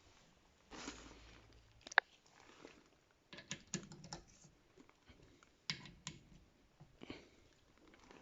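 Faint, scattered clicks and knocks of brake pads and hand tools being handled as a car's disc brake is reassembled. The sharpest click comes about two seconds in.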